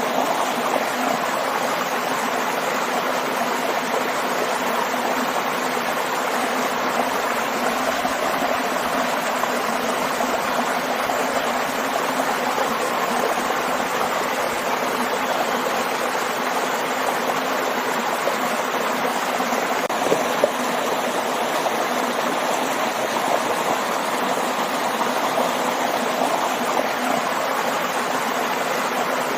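Stream with a small waterfall, water rushing and splashing steadily, with a couple of faint splashes or clicks about two-thirds of the way through.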